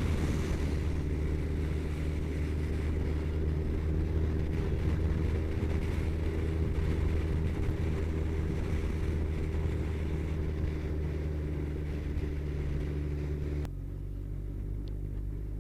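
Kawasaki ZZR1400's inline-four engine running steadily at cruising speed with wind rush. Near the end the wind hiss cuts out suddenly and the engine note drops lower.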